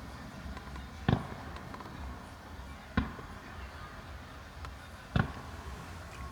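Fireworks bursting overhead: three sharp booms, about two seconds apart, each with a short echoing tail, over a steady low rumble.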